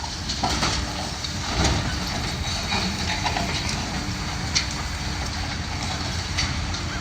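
Demolition excavator's diesel engine running steadily under load as it tears down a building, with scattered cracks and clatter of breaking concrete and falling debris.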